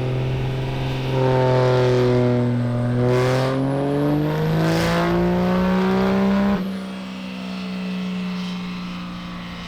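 Turbo diesel pickup truck engine revving, its pitch climbing steadily over about six seconds with a faint high turbo whistle rising above it. It then drops suddenly to a quieter, steady drone.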